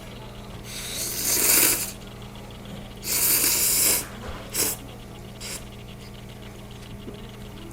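Someone slurping hot ramyeon noodles: two long airy slurps, then two short ones, over a steady low hum.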